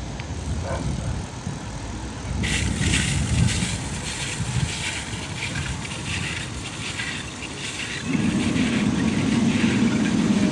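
Outdoor rumble and hiss with wind on the microphone; about eight seconds in, a steady low vehicle engine drone joins and holds.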